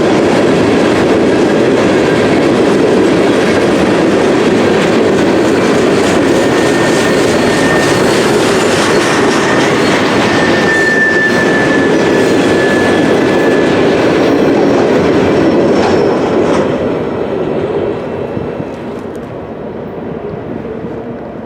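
Freight train cars rolling past on the rails with a loud, steady rolling noise and a thin wheel squeal for a few seconds midway. The noise drops away over the last few seconds as the train passes.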